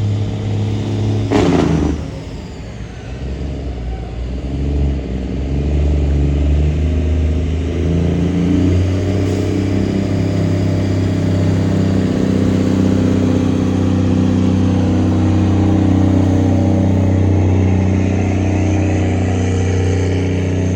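Large diesel truck engine running under load, its pitch rising over several seconds and then holding at a steady higher speed. A short loud burst comes about a second and a half in.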